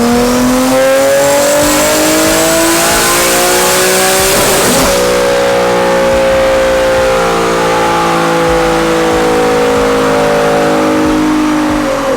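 Turbocharged Nissan 370Z's 3.7-litre V6 making a dyno pull: revs climb steadily under full load for about four and a half seconds. Then the throttle is released with a brief rush, and the engine and rollers slowly wind down, the pitch falling.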